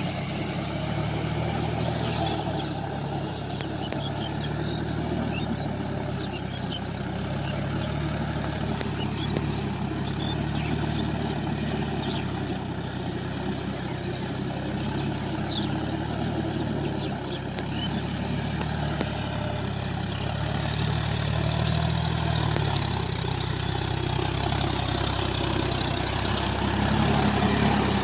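Large farm tractor's diesel engine running steadily, with scattered faint light ticks over it; it grows somewhat louder in the last third.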